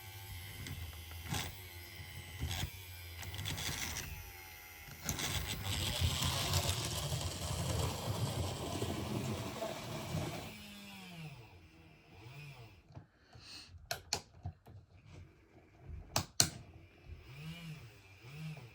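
Model train running on the layout track: a small electric motor whirring and wheels rumbling, with clicks over the rail joints, growing louder as it passes then dropping away about ten seconds in. A few sharp knocks follow in the quieter part.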